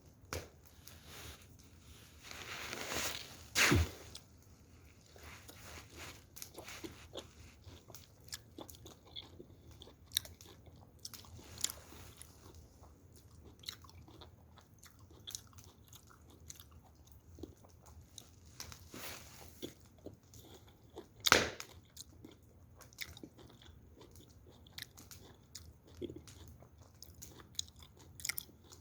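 Someone chewing crunchy food close to the microphone: irregular crunches and clicks, with a louder burst about three seconds in and another about two-thirds of the way through.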